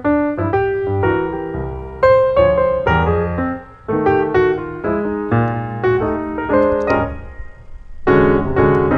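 Background piano music, a melody of struck notes over low bass notes, fading briefly near the end before a new phrase.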